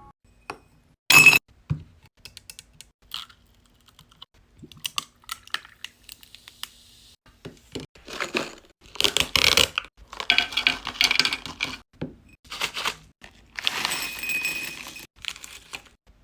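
Snack and drink packaging being handled: scattered small clicks and taps, a loud sharp crack or tear about a second in, and several rustling, crinkling bursts in the second half.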